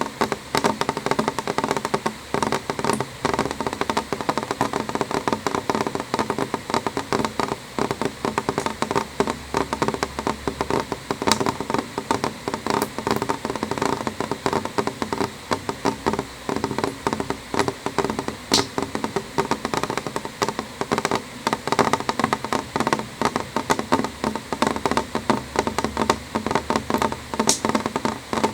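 Steady rain, with drops tapping densely and irregularly on window glass and a few sharper single drops standing out.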